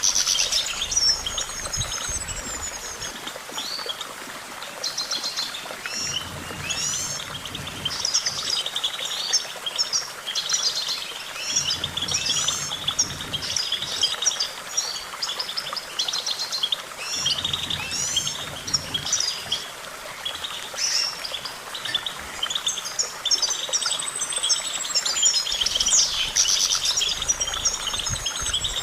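European goldfinch song: a fast, continuous twitter of rapid trills and short chirping notes, with longer sliding whistles near the start and near the end.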